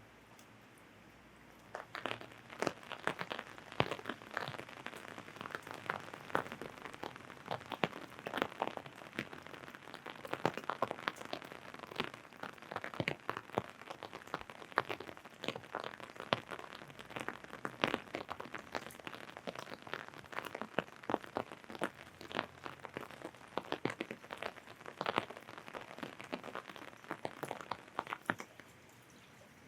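Raindrops hitting a taut umbrella canopy: dense, irregular taps that start about two seconds in and stop shortly before the end, over a faint hiss of rain.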